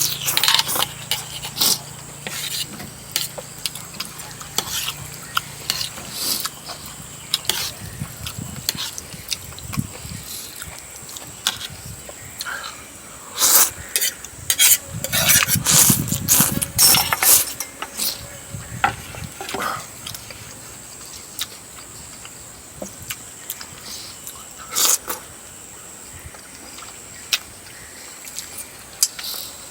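Close-up eating sounds: cutlery clinking and scraping against dishes, with the mouth noises of eating soft-braised chicken feet. It comes as scattered sharp clicks that crowd together around the middle.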